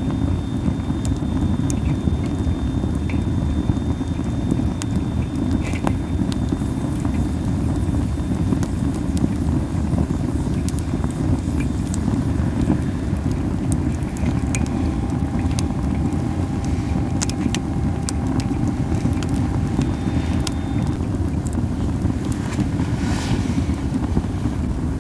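Campfire of burning masaki (Japanese spindle tree) wood, with scattered sharp crackles and pops over a steady low rumble. A faint thin whistle, typical of sap or moisture hissing out of the wood, sounds for several seconds past the middle.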